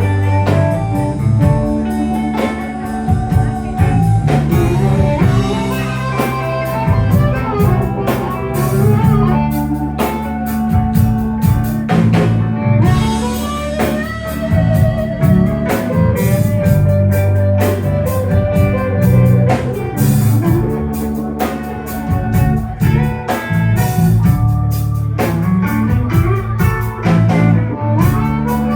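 Live electric blues band playing an instrumental passage: electric guitar lines with bent notes over bass and a steady drum-kit beat.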